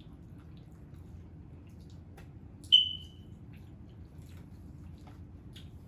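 Quiet eating and handling of a seafood boil, with scattered small clicks and one sharp ringing clink, like a utensil striking a dish, a little under three seconds in.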